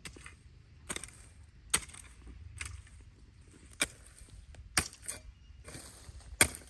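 A series of sharp blows, about one a second and irregular, the loudest near the end.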